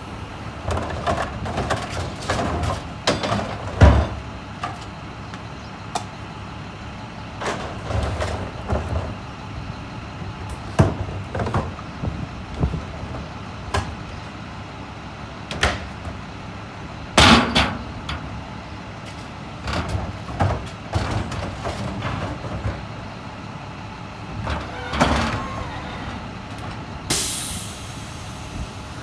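A truck running steadily, with scattered knocks and clunks and two short hisses, one about two-thirds of the way through and a longer one near the end.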